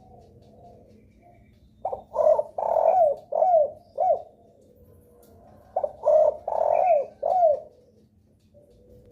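Derkuku (island collared dove) cooing twice, each phrase a few quick notes ending in falling coos, played as a lure call to set other derkuku calling.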